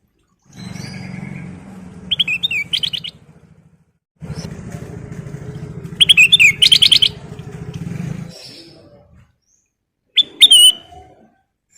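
Kutilang emas bulbul singing three short bursts of quick, warbling notes, over a low background hum that comes and goes twice.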